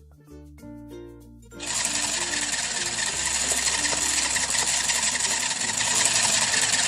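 Battery-powered toy kitchen appliance running, a loud steady buzzing rattle that starts about a second and a half in, with children's background music under it.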